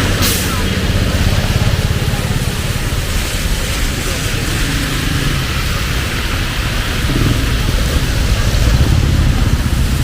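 Heavy rain pouring steadily, with a low rumble of passing traffic underneath and a brief sharp splash of noise right at the start.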